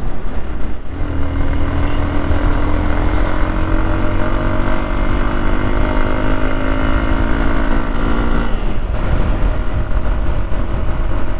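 Hero Xpulse 200's single-cylinder engine pulling steadily under way, its note creeping slowly upward, then dropping away sharply about eight and a half seconds in. Heavy wind rumble on the microphone throughout.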